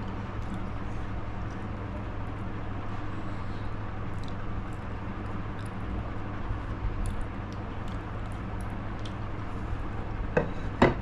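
Steady low hum of room noise with faint scattered clicks, then two sharp knocks close together near the end.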